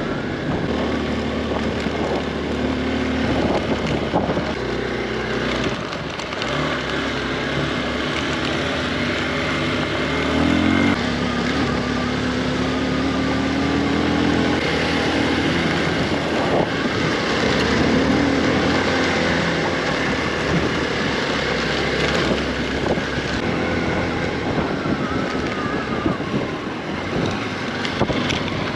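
Motorcycle engine running while riding, its note rising and falling, with wind noise on the microphone.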